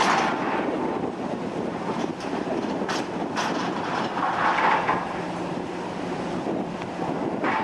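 Steady mechanical running noise with a low hum and a few sharp clanks about three seconds in, from heavy construction machinery.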